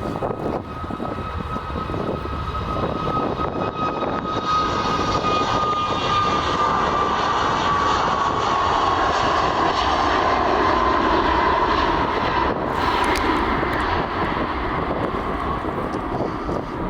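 Airliner engines passing by, a rumble that builds to its loudest about two-thirds of the way through, with a whine that slides slowly lower in pitch as the aircraft goes past.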